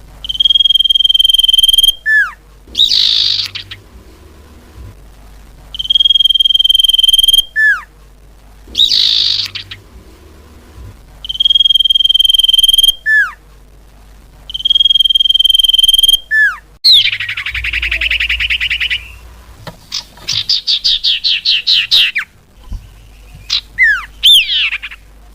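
Common iora (cipoh) calls from a bird-lure recording. Four times over, a long level whistle of about a second and a half is followed by a quick falling note and a raspy, buzzy note. Later comes a fast chattering run of about a dozen notes, then a few quick down-slurred whistles near the end.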